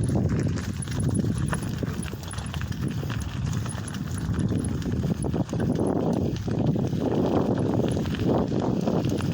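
Lowrider bicycle rattling and clattering as it rides over rough, bumpy ground, many small irregular knocks over a steady low rumble.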